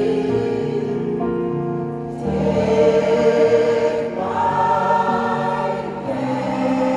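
Mixed choir of older singers singing in sustained chords, the harmony changing a couple of times.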